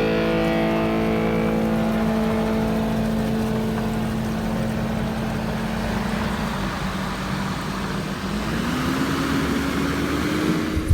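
An engine running at a steady speed, then revving up with a rising pitch over the last few seconds.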